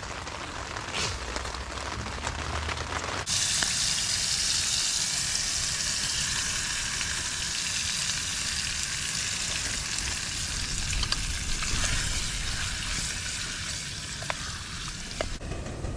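Food sizzling in a pot on a camping gas stove, a steady hiss that starts abruptly about three seconds in and stops shortly before the end, with a wooden spoon stirring it near the end.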